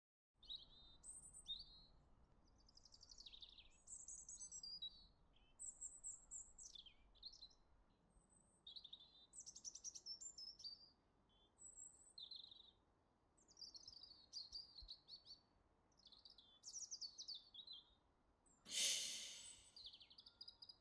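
Faint songbird singing in short, varied chirping phrases with brief pauses between them. Near the end comes a single burst of noise that fades out over about a second.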